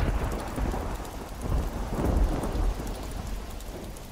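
Steady rain falling, with a low rumble of thunder that swells about two seconds in and then eases off.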